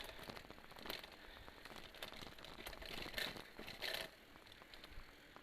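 Element Spy 2.0 mountain bike's chain rattling and slapping over rough dirt trail, irregular clattering with sharp knocks, quieter near the end. It is really noisy because no chain cover is fitted.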